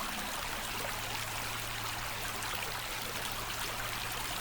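Creek water flowing, a steady even rush of stream noise.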